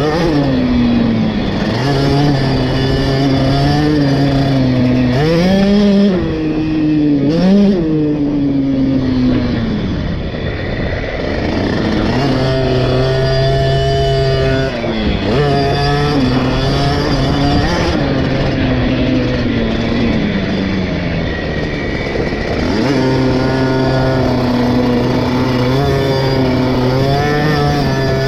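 KTM SX 50 two-stroke single-cylinder motocross engine, heard from onboard while riding laps. It holds steady high revs for long stretches and drops and climbs quickly in pitch a few times as the throttle is rolled off and back on.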